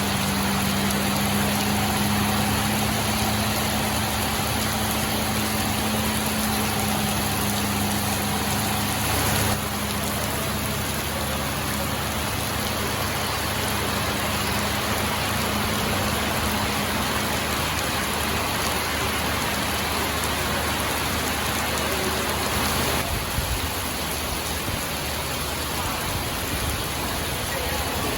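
Heavy rain falling steadily, with a low engine hum underneath that fades about a third of the way in.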